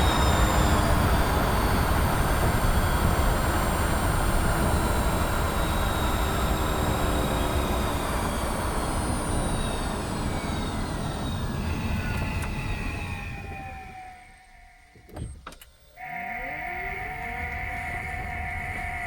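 Mazda MX-30 driving with a heavy low rumble through the cabin and the electric drive's whine falling in pitch as the car slows, the rumble the owner blames on the driveline. About 14 s in the noise dies away, with a couple of sharp clicks, and a steady two-note tone then sounds to the end.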